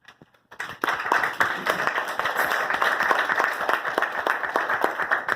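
A small audience applauding, with steady hand clapping that builds quickly about half a second in and begins to thin out near the end.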